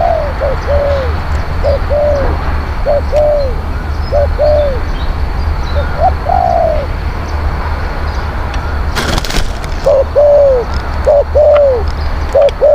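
Spotted dove cooing: repeated phrases of short, downward-arching coos with a pause of a couple of seconds in the middle. A brief rushing noise comes after the pause, and a steady low hum runs underneath.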